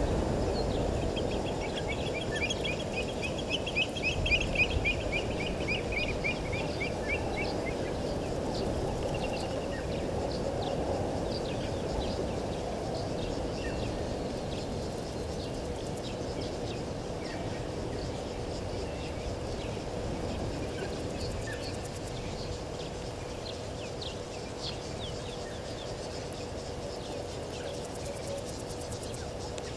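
Bush ambience: a bird's rapid trill lasting several seconds near the start, slowly falling in pitch, then scattered short bird chirps over a steady low background noise with a faint constant hum. A few soft low knocks come about four seconds in.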